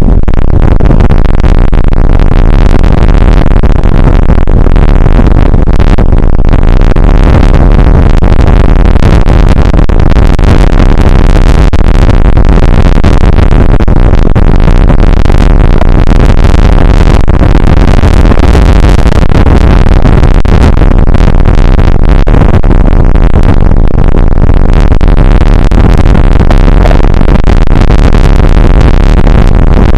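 Rain and wind on an outdoor weather camera's microphone, a dense, steady hiss and rumble so loud that it is overloaded and distorted.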